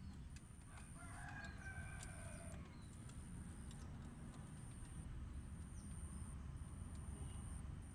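A bird gives one held call lasting about a second and a half, starting about a second in, over a low steady hum.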